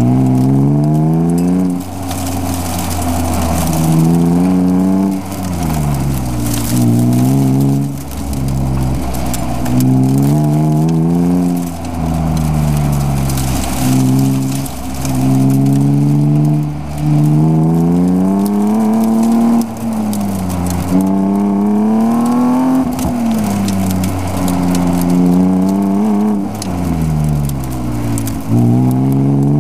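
BMW E36 M3 straight-six engine heard from inside the cabin on an autocross run, revving up hard and falling back again and again, about every two to three seconds, as the car accelerates and lifts off for the corners.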